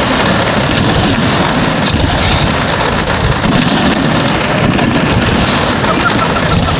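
Fireworks exploding in a dense, continuous barrage of booms.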